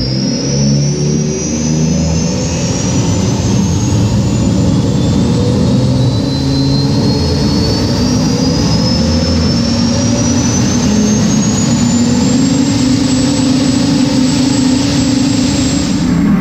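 A racing jet boat's engine running hard under acceleration: a deep engine drone with a high whine that climbs steadily in pitch, levels off, and then cuts off near the end.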